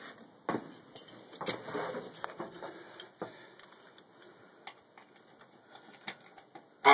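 Scattered knocks, clicks and a light jingle of keys as someone climbs into the cab of an M35A2C army truck and gets ready to start it. Just at the end a loud, steady warning buzzer comes on abruptly.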